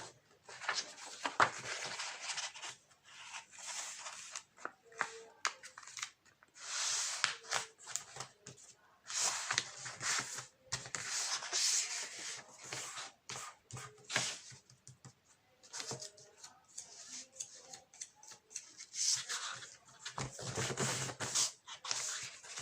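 A sheet of paper rustling and scraping in irregular bursts as it is handled, folded and creased.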